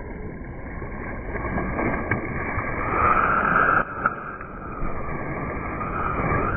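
Ocean waves and rushing water picked up by a GoPro camera in the surf. The rush swells about three seconds in, drops off sharply just before four seconds, then builds again, with a couple of short knocks on the camera.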